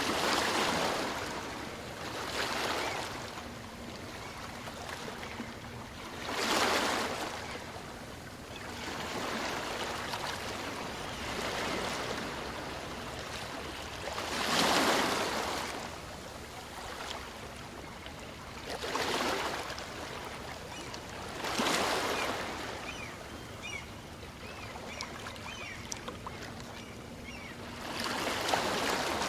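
Calm sea's small waves breaking and washing up on a beach. Swells of surf rise and fall at uneven intervals of a few seconds, about seven in all, over a steady hiss of moving water.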